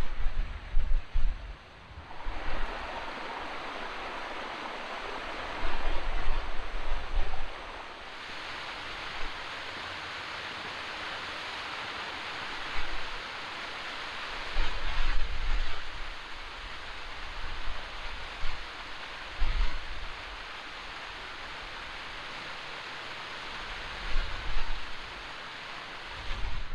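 Waterfall on a fell beck rushing steadily, with gusts of wind buffeting the microphone in low rumbles several times.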